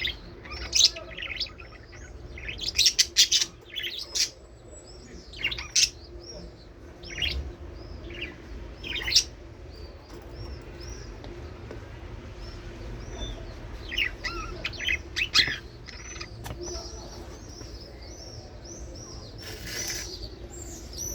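Budgerigars chirping and chattering: short, quick chirps coming in clusters every few seconds. A faint steady hum runs underneath.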